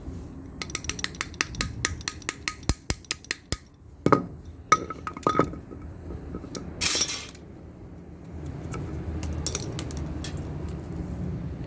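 Metal-on-metal tapping as the bearing spacer is driven into a motorcycle rear wheel hub: a quick run of light clinking taps, about four a second, then three harder ringing knocks a little past the middle, a short scrape, and a few faint ticks near the end.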